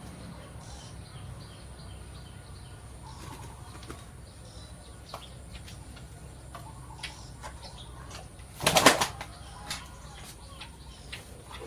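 A short burst of rapid flapping about nine seconds in, the loudest thing heard, over a low steady hum and scattered faint clicks.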